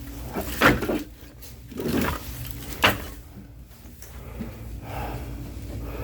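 Split oak firewood being handled and set down piece by piece, with a sharp wooden knock within the first second and another about three seconds in.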